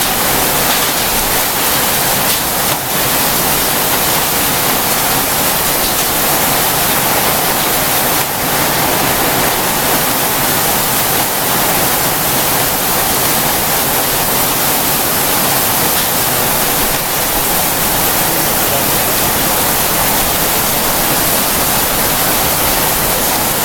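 Heavy rain and hail pelting down in a summer storm: a loud, steady rush of noise.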